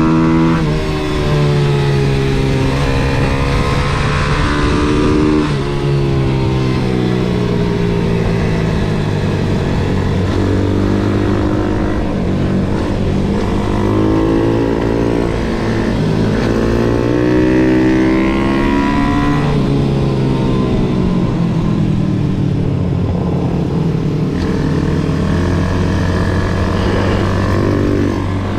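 MRF 140 SM pit bike's single-cylinder four-stroke engine at racing revs on a lap, its pitch repeatedly climbing under throttle and dropping again on gear changes and downshifts into corners.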